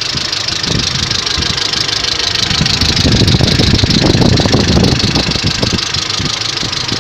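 Mercedes-Benz W202's M111 four-cylinder petrol engine idling while warming up, with a rapid knocking in its running that grows louder for a couple of seconds around the middle. The knock appears only now and then during warm-up and started after an oil change; the owner does not know its cause.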